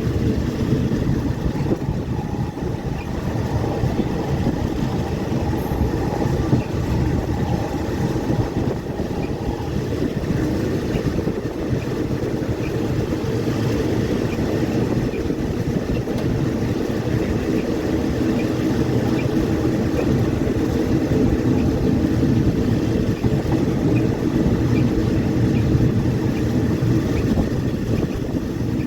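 Passenger train running along the line, heard from on board: a steady rumble of the carriage and wheels on the rails.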